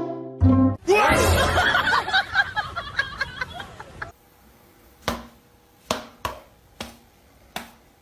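A burst of laughter lasting about three seconds, followed by a run of sharp, separate knocks or taps about half a second to a second apart.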